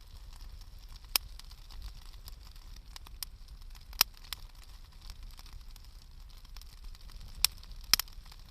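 Wood fire crackling: irregular sharp pops, some close together, over a steady soft hiss, with the loudest pops near the end.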